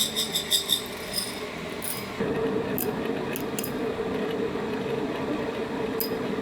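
A quick run of light clinks, then a steady whirring hum from a small motor, starting about two seconds in.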